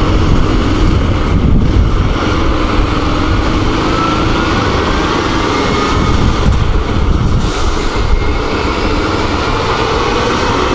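Motorcycle riding along the road, heard from the rider's own microphone: a steady rumble of wind and road noise over the engine, whose faint note glides up and down in pitch a few seconds in.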